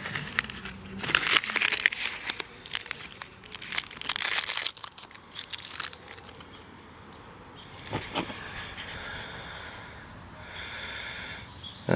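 Crinkling and rustling of paper or plastic wrapping being handled, busy for the first few seconds and then a softer rubbing hiss near the end.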